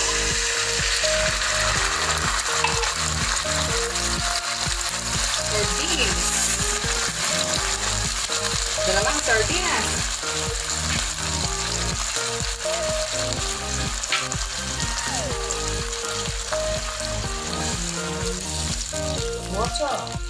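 Canned sardines in sauce frying in hot oil with sautéed shallots and garlic in a wok, sizzling steadily.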